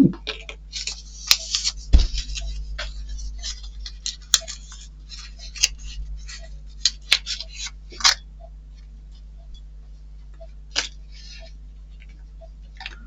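Packaging and small model-kit parts being handled and opened: sharp clicks and short rustling scrapes, busiest over the first eight seconds and then only a few scattered clicks.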